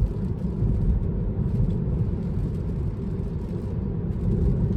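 Steady low road and tyre rumble inside the cabin of a Tesla driving along.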